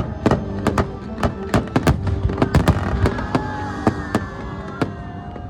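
Fireworks bursting in quick succession, about two or three sharp bangs a second, over music. The bangs thin out after about three seconds, with a last one near the end.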